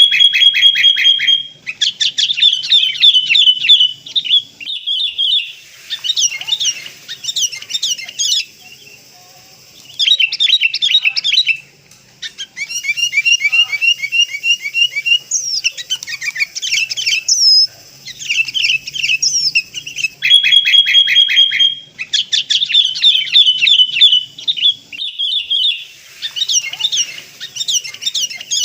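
Sooty-headed bulbuls (kutilang) calling loudly in rapid chattering bouts a few seconds long, with short pauses between them. This is a bulbul lure call, and the same sequence comes round again about twenty seconds later.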